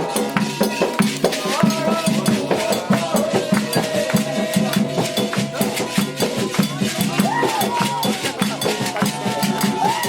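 Candomblé xirê music: hand drums and a bell, typically atabaques and an agogô, played in a fast steady rhythm under voices singing a chant.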